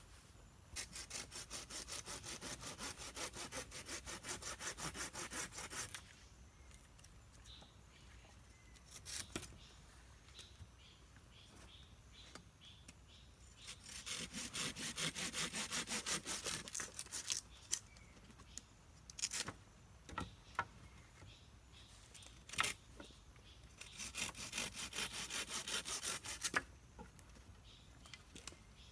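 Hand saw cutting through wood in three bouts of quick, even strokes, about four a second, each lasting a few seconds. A few single sharp knocks fall between the bouts.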